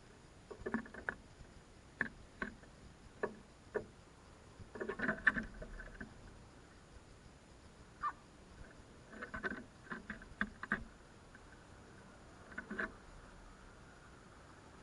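Crows pecking and picking at food on a hard surface: irregular sharp taps and knocks, some single and some in quick clusters, then nothing for the last couple of seconds.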